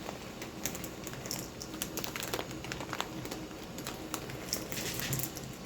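Plastic bag of mini chocolate chips crinkling as it is handled, with light scattered clicks and a denser rustle near the end.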